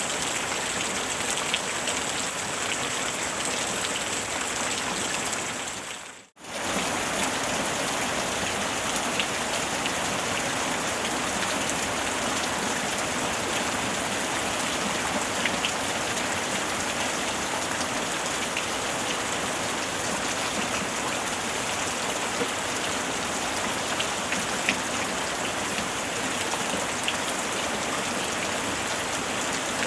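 Steady rain falling on a surface, with scattered single drops standing out. About six seconds in it fades out to silence for a moment and comes straight back.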